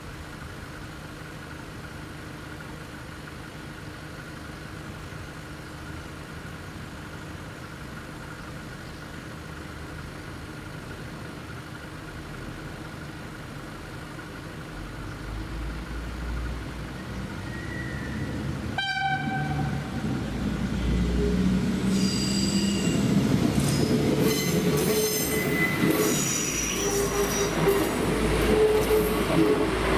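Level crossing warning bell ringing steadily while a diesel passenger railcar approaches, growing louder. The railcar sounds its horn briefly about two-thirds of the way in, then passes over the crossing with engine noise, wheel clatter and high squealing from the wheels on the rails.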